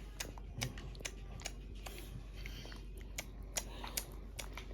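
Faint, irregular small clicks and mouth smacks, about three or four a second, from a baby eating solid food.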